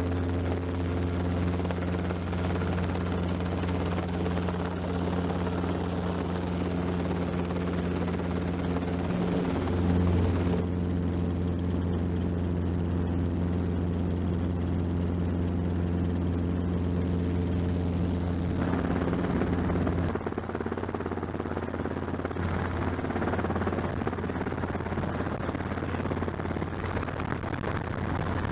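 Helicopter running steadily, a loud low drone of engine and rotor, with the mix of the sound shifting about ten and again about twenty seconds in.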